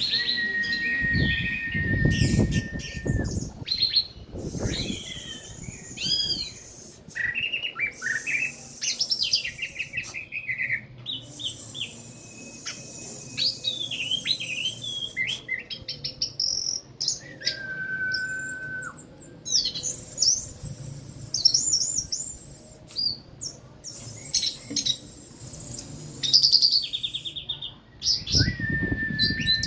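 Orange-headed thrush (anis merah) singing a long, varied song after its moult: clear held whistles, quick rising and falling phrases and high buzzy trills, with short breaks between phrases. A brief low rumble comes in near the start and again near the end.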